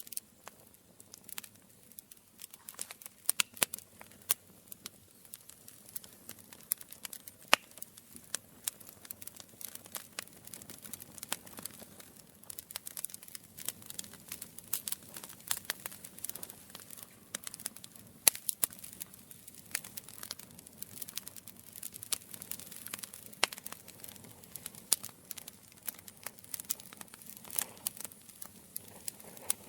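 Campfire crackling: wood snapping and popping in many sharp, irregular clicks over a faint hiss, a few louder pops standing out.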